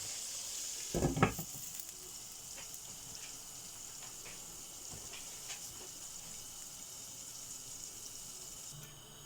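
Flour-coated chicken strips sizzling in hot oil in a covered pan, with a steady hiss and scattered small pops. A single knock about a second in stands out above the sizzle, which is quieter after it.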